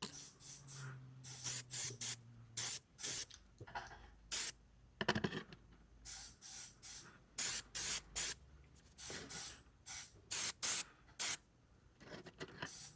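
Testors fine primer aerosol can spraying in a series of short hissing bursts, priming small die-cast metal castings.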